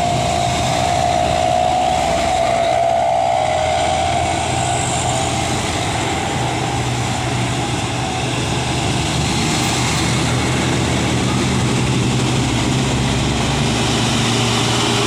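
Truck engine running steadily under load while climbing a hill. A high whine drifts slightly downward and fades out during the first half.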